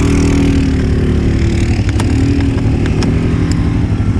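ATV engine running steadily while being ridden, its pitch rising and dipping slightly with the throttle. A couple of sharp clicks, about two seconds and three and a half seconds in.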